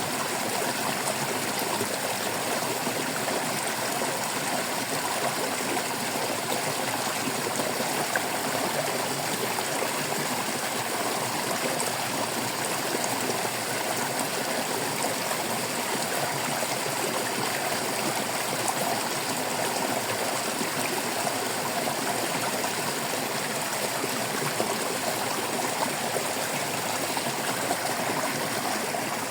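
A shallow stream babbling and trickling steadily over stones.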